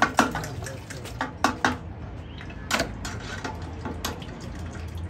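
Scattered sharp clinks and knocks, about seven in all, over a steady low hum.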